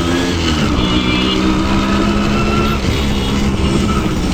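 Yamaha RX100's two-stroke single-cylinder engine running at steady revs during the ride, its pitch dipping briefly twice.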